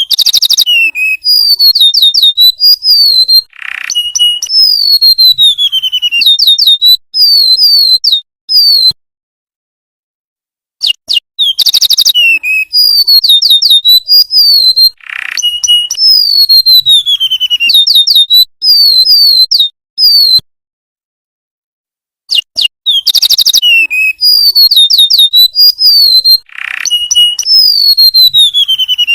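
Golden-bellied gerygone (remetuk laut) song played as a looped training recording: high, thin whistled phrases of quick notes and long descending whistles. The same sequence repeats about every 11 seconds, broken by abrupt silent gaps twice.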